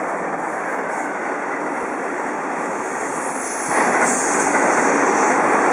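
Odakyu Line electric train running past, a steady rushing noise that grows louder about four seconds in.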